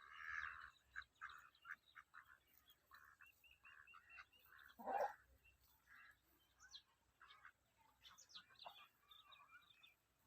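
Poultry calling faintly: a string of short repeated calls with some higher chirps, and one louder, lower call about five seconds in.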